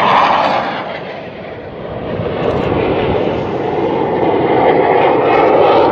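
Jet noise from a U.S. Navy F/A-18 Hornet on a high-speed pass: a loud rushing sound that eases for a moment about a second in, then builds again.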